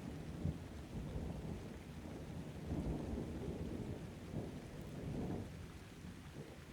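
Thunder rumbling low over steady rain. The rumble swells a few times, then fades away near the end.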